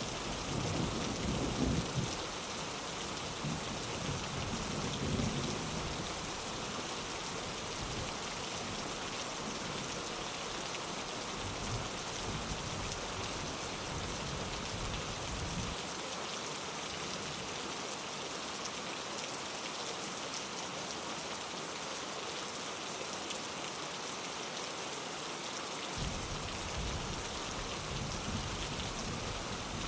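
Steady rain falling on a window, with low thunder rumbling in the first few seconds.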